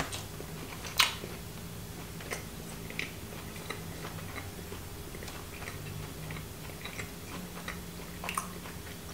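Biting off a piece of a firm, dry mini kabanos pork sausage and chewing it: one sharp snap about a second in, then scattered small clicks of chewing.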